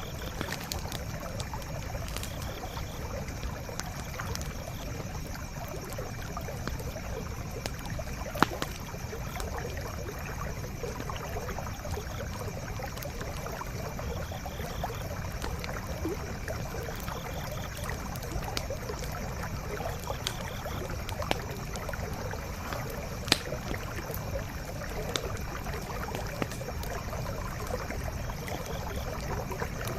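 Forest stream flowing steadily, with a wood campfire giving scattered sharp crackles and pops, the loudest about eight seconds in and another in the last third.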